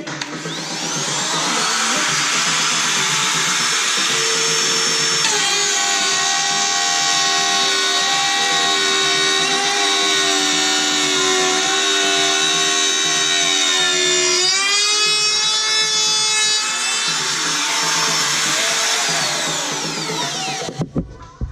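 Handheld wood router spinning up to a steady high whine. Its pitch drops about five seconds in and rises again near fifteen seconds, then it winds down and cuts off.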